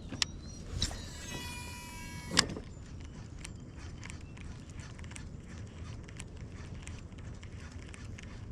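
A cast with a baitcasting reel: the spool whirs with a steady whine for about a second and stops with a sharp click, then faint ticking of the retrieve over a low steady hum.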